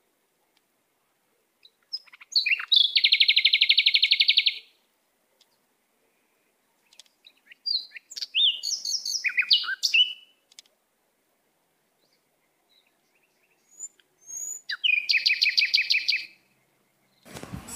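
Small pet cage birds calling: three bouts of high chirping with quiet between, two of them fast, buzzy trills about two seconds long and one a run of short chirps.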